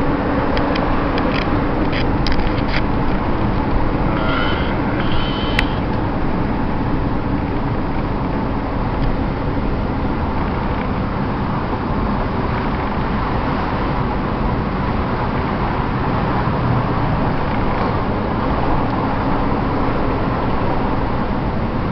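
Steady road and engine noise inside a moving car's cabin, with a few faint clicks in the first few seconds.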